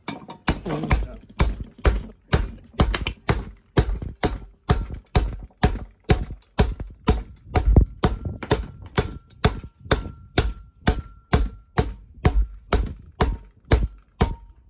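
Steady hammering, sharp even blows at about two and a half a second, with a solid low thud in each strike.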